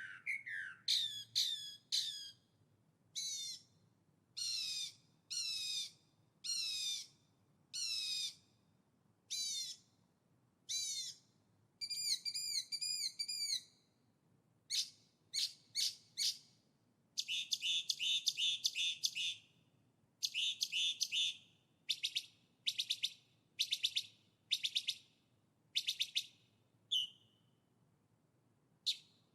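A songbird singing: short phrases of sweeping whistled notes, one every second or two, then through the middle and later part a series of rapid trills, each lasting about a second.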